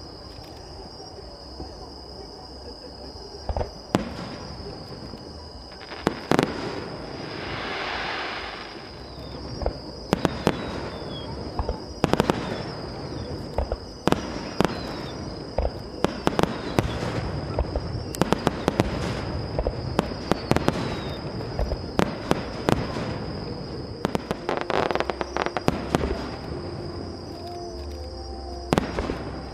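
Aerial fireworks display: shells bursting in a string of sharp bangs, with a hissing whoosh about eight seconds in and dense crackling clusters in the second half.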